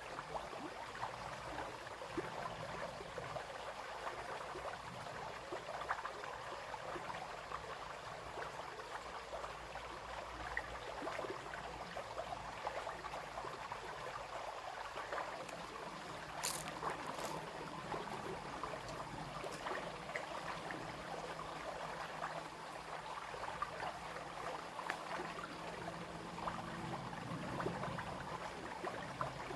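Brook babbling and trickling over stones, a steady murmur of small splashes. Two short sharp clicks about halfway through.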